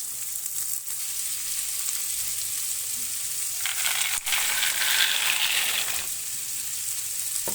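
Oil sizzling steadily around onions frying on high heat. Near the middle a louder rushing noise swells up for about two seconds, with a sharp click inside it.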